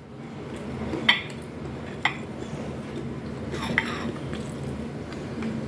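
Eating utensils clinking against dishes three times, about one, two and four seconds in, each a sharp click with a short ring.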